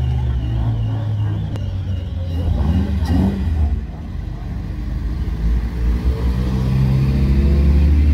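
Car engine rumbling as the car drives slowly up and passes close by, revving up and getting louder over the last few seconds.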